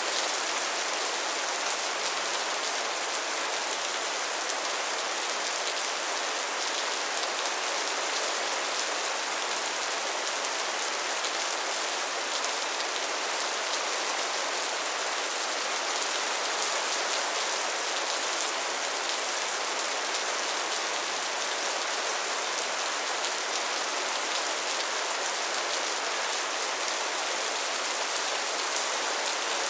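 Steady soft rain falling, an even hiss with fine scattered drop ticks.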